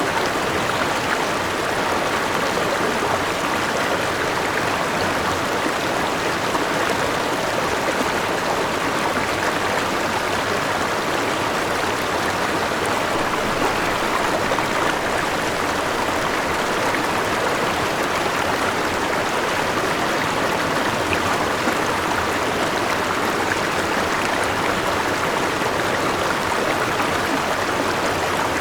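River water rushing and splashing over a small waterfall, a steady, even rush without change.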